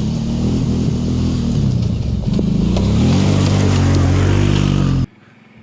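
Kawasaki Brute Force 750 ATV's V-twin engine running on a trail. Its pitch dips about two seconds in, then climbs as it accelerates and holds higher, before the sound cuts off suddenly about five seconds in.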